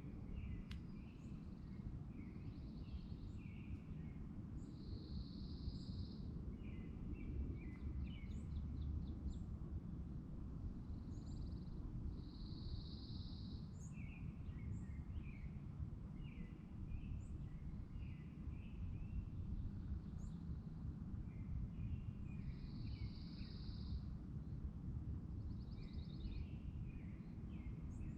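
Songbirds singing by a lake, with short chirps, quick trills and brief buzzy notes repeating every few seconds, over a steady low rumble of outdoor background noise.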